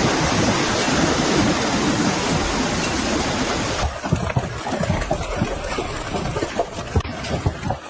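Heavy storm downpour of rain and hail, a loud, dense hiss. About four seconds in it cuts to a duller stretch full of short low thumps, like gusts and pelting on a surface or the microphone.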